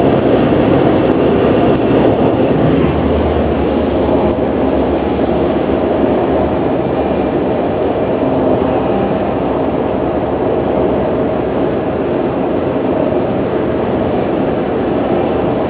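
Steady road and engine noise inside a moving car's cabin: an even low rumble of tyres and engine with no sudden events.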